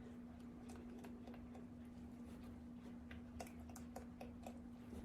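Faint steady low hum with a scattering of light, sharp clicks that come more often in the second half.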